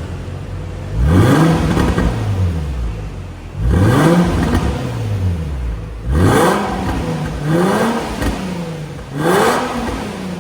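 Infiniti FX35's 3.5-litre VQ35HR V6 revved five times through an MS-R valved catback exhaust, each rev rising quickly and dropping back to idle.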